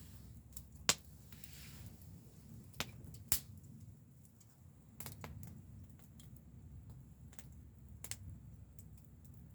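Wood fire crackling, with sharp pops at irregular intervals over a low steady rumble.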